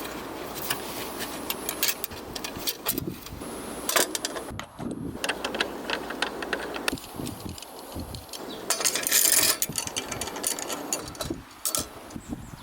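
Gusty wind buffeting the microphone, with irregular rattling and clicking throughout and a louder gust about nine seconds in.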